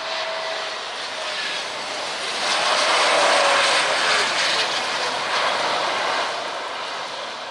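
Jet airliner's engines passing close on landing approach, a broad rushing noise that swells to a peak about three seconds in and then fades.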